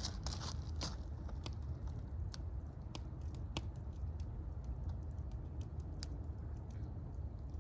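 Fire crackling: irregular sharp pops and snaps scattered over a steady low rumble, with a quick cluster of louder crackles at the start.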